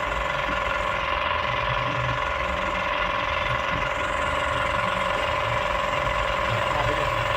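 Excavator engine running at a steady, even pitch.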